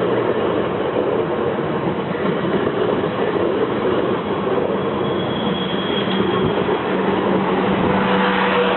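South West Trains Class 444 Desiro electric multiple unit running over the level crossing, a steady loud rush of wheels and motors, with a faint high whine about five seconds in and a low hum growing stronger near the end.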